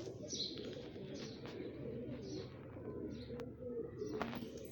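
Pigeons cooing in a steady, wavering murmur, overlaid with short, falling high chirps from small birds every second or so. Two sharp clicks sound near the end.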